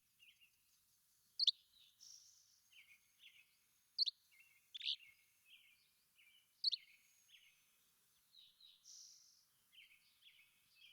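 Several wild birds chirping and calling together. A loud, sharp, falling call comes three times, about every two and a half seconds, over softer chatter and a couple of longer buzzy notes.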